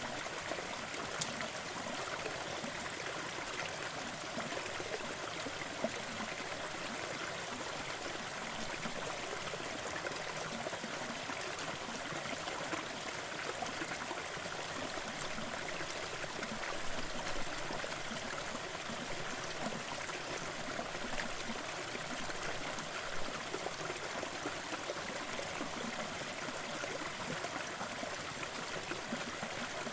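Waterfall water splashing and running steadily, with a small stream's trickle and gurgle in it.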